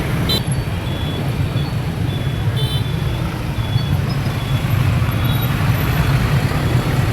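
Motor scooter riding through dense city traffic: a steady engine and road rumble, with several short high beeps from horns in the traffic.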